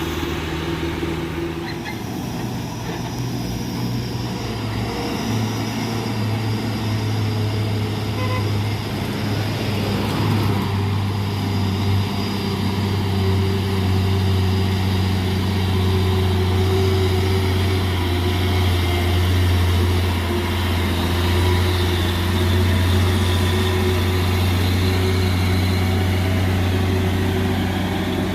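Heavy truck's diesel engine running steadily under load on the climb, a deep, even drone that grows slowly louder.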